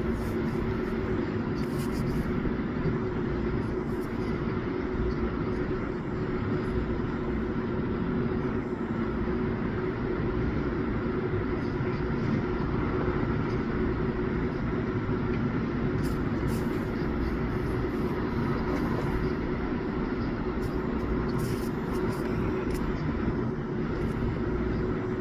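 Steady machine hum with several constant tones over a continuous rushing noise, with a few faint clicks.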